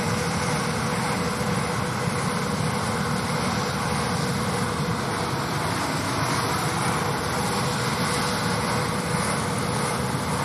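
Steady machinery noise of tractors pulling peanut pickers working the field: an even running drone with a thin steady hum and no separate knocks or changes.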